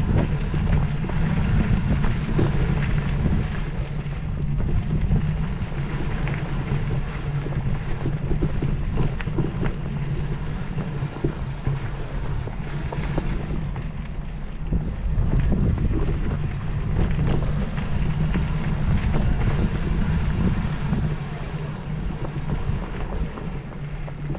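Steady low engine drone with wind buffeting the microphone.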